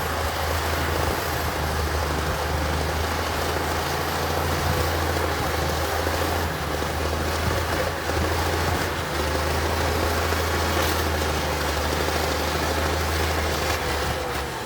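Heavy earthmoving machine's diesel engine running steadily with a low drone.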